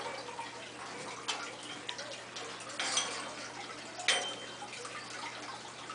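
Water trickling over a low steady hum, with a few sharp clicks and knocks about a second or so apart.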